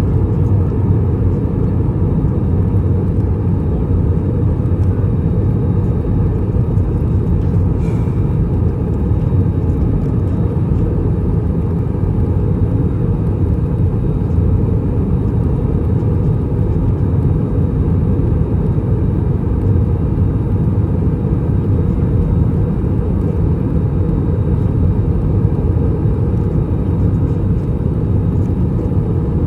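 Steady low cabin rumble inside an Airbus A321 descending, from its IAE V2500 engines and the airflow over the fuselage.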